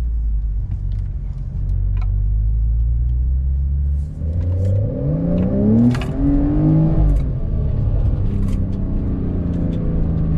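Porsche 992 911's flat-six engine under way: a steady low drone, then from about four seconds in the revs climb in a rising pitch, with a gear change near six seconds and a second short climb before it settles back to a steady drone.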